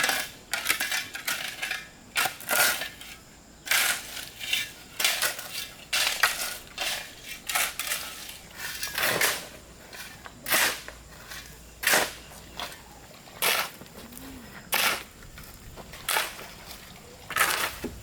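A series of irregular short knocks or scraping strikes from hand work, roughly one every half second to a second.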